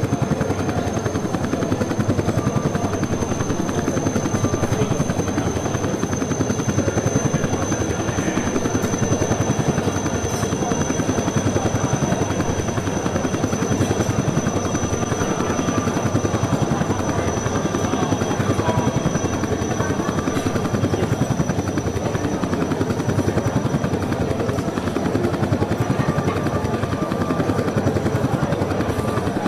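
Helicopter rotor chop, loud and steady, with a thin high whine running above it.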